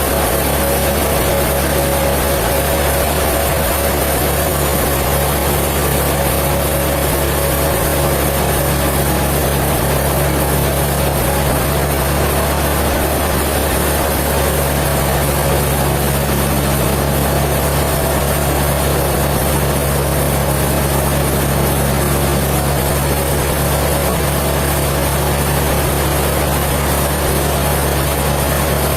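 Sawmill machinery running with a steady, unbroken low drone.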